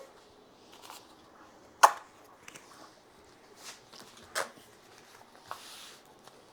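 Small objects and paper being handled on a desk while packing an order: a few sharp taps and knocks, the loudest about two seconds in, and a short rustle near the end.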